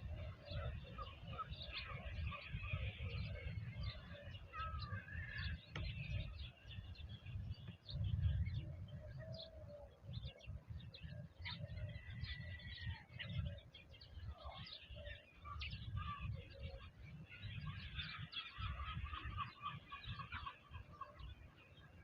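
Birds calling over one another in many short, irregular calls, over a constant low rumble.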